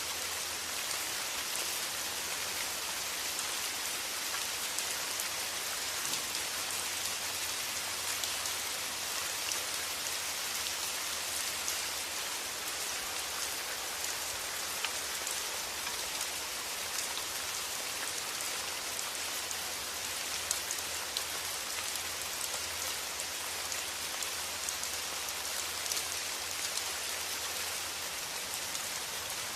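Steady rain, an even hiss dotted with fine, scattered drop ticks.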